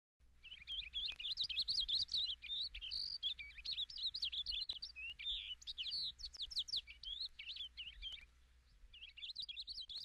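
Songbirds chirping in a quick, continuous chatter of short high notes, with a brief lull near the end before the chirping picks up again.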